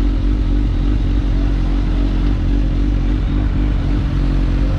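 Motorcycle engine running at a steady speed while riding, with a steady rush of wind noise.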